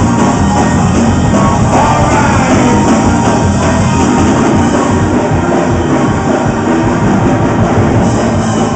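Loud live gospel praise-break music from a church band, playing at full volume without a break.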